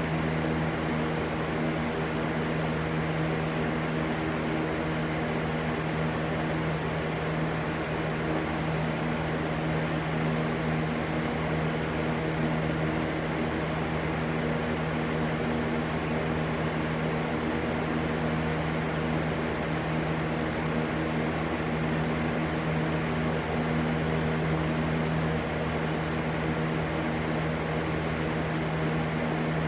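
Steady white-noise sound: an even rushing hiss with a low, steady hum underneath that does not change.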